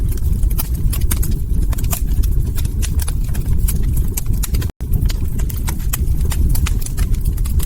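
Log fire crackling: frequent sharp pops and snaps over a steady low rumble of burning wood. The sound cuts out for an instant a little past the middle.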